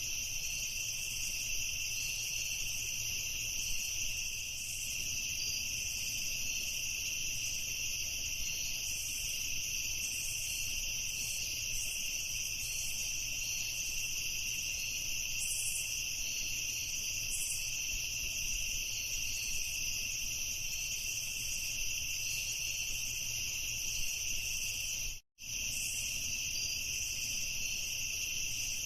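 Crickets chirping in a steady, unbroken chorus, cut by a split-second gap of silence about 25 seconds in.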